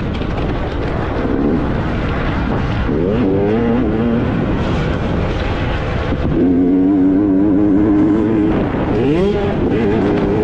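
Motocross bike engines revving, the pitch rising and falling sharply several times, with a steadier held note for a couple of seconds past the middle.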